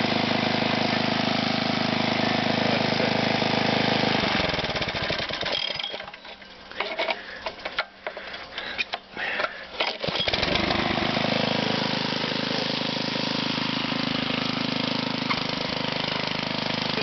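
Briggs & Stratton Intek 5.5 hp single-cylinder engine on a Craftsman front-tine tiller running steadily, then shut off about four seconds in and winding down. A few clicks and knocks follow, then it restarts about ten seconds in and settles into a steady run.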